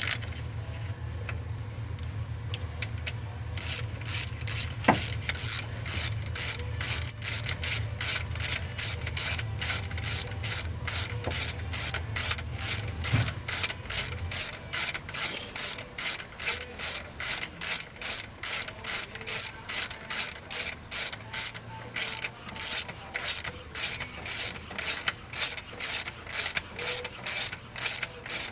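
Ratchet wrench turning a Time-Sert thread-repair tap down into an aluminum engine block's head bolt hole. Its pawl clicks in an even run, about two to three clicks a second. A low hum sits under the clicks for the first half.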